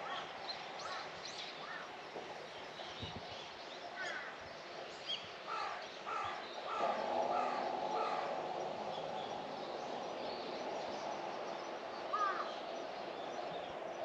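Birds calling: a run of about five quick, evenly spaced calls a little past the middle, a single call near the end, and scattered faint high chirps over a steady background hum.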